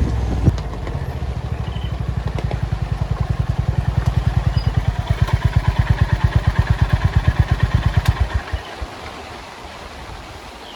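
Honda CB350 RS single-cylinder engine idling with an even low thud, about seven beats a second, then switched off after about eight seconds.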